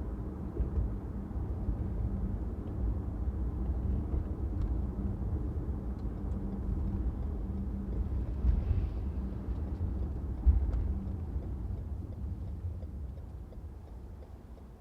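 Car driving on a city street: steady low road and engine rumble, with a single short knock about ten seconds in. The rumble grows quieter over the last few seconds.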